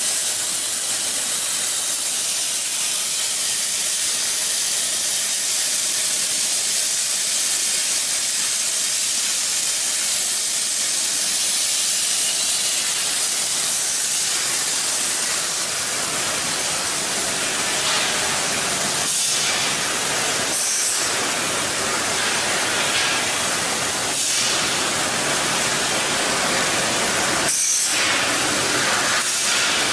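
A steady, loud hiss, strongest in the high range, with a few faint brief swishes in the second half.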